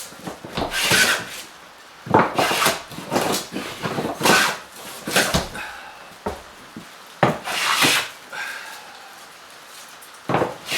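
Wood being trimmed by hand: about six separate scraping strokes of an edge tool on wood, uneven in spacing, each lasting under a second.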